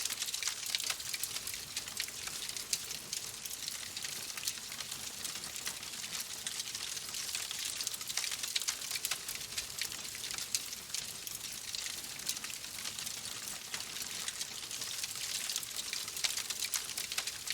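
Wood fire crackling in a fireplace: a steady hiss with many small, sharp pops and snaps throughout.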